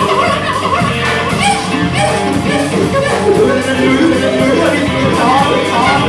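Live band music with a steady beat from drums and cymbals under pitched instrumental or vocal lines.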